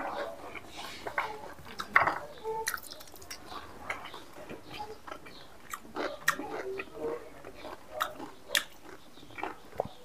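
Close-miked mouth sounds of a person eating by hand: wet chewing and lip smacking with many sharp, irregular clicks.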